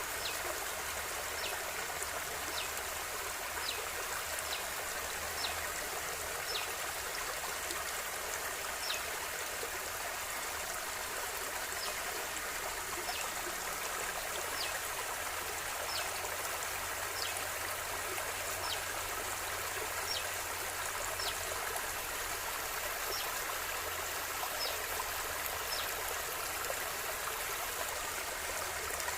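River water flowing steadily over rocks, an even rushing and trickling, with faint short high chirps recurring every second or so.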